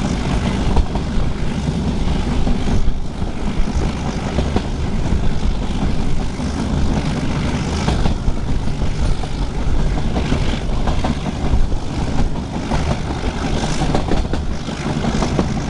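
Metre gauge train running, a steady heavy rumble with rushing noise.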